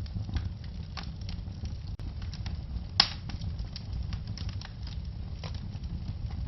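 Wood fire crackling in a fireplace: a steady low rumble of burning with many small scattered crackles, and one sharp, loud pop about three seconds in.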